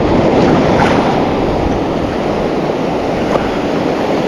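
Steady ocean surf along the shoreline mixed with wind on the microphone, starting abruptly. A couple of faint clicks sit underneath.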